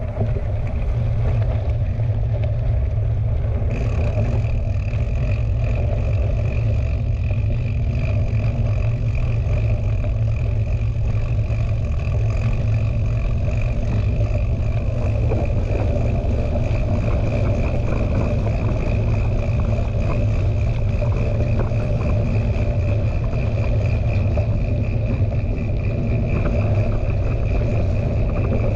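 Riding noise picked up by a GoPro on a mountain bike: a heavy steady wind rumble on the microphone with the clatter of the bike over the trail, and a steady high whine that comes in more strongly about four seconds in.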